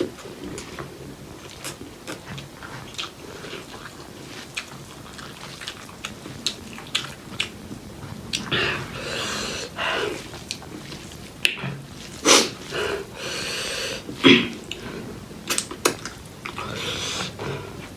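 Close-miked eating of pork leg curry with rice: wet chewing and sharp mouth clicks, with several loud breaths in between, the loudest about twelve and fourteen seconds in.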